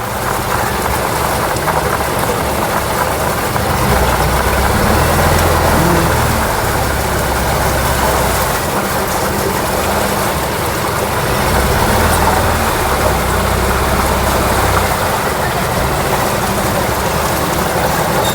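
Motorboat engine running steadily under way, its low hum swelling and easing, with a steady rushing noise over it.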